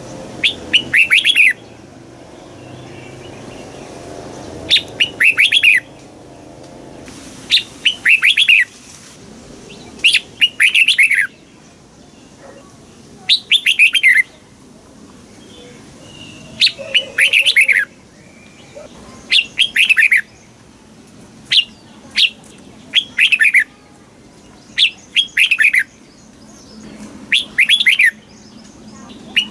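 Red-whiskered bulbul singing: short phrases of quick, falling notes, repeated about every two to three seconds.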